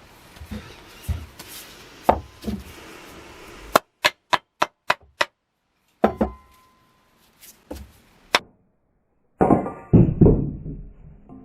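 A series of sharp knocks and strikes in edited snippets with abrupt silences between them: a quick run of about seven clicks, a few single knocks, and near the end a heavier blow whose ring falls in pitch.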